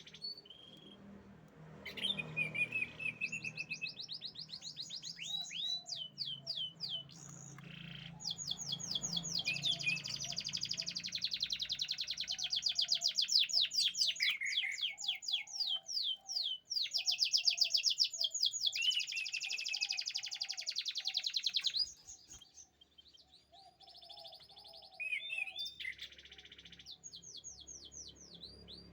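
Canary singing: long, fast trills of rapidly repeated high-pitched notes, run after run with short breaks, and a quieter lull a little over three quarters of the way through.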